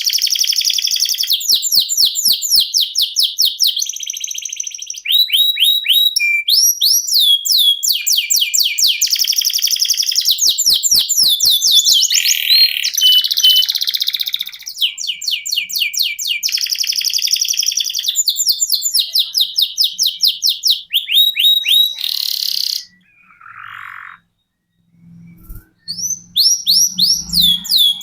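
Domestic canary singing a long rolling song: fast trills of repeated falling whistled notes, phrase after phrase with changing speed and pitch. The song breaks off about 23 seconds in and resumes near the end.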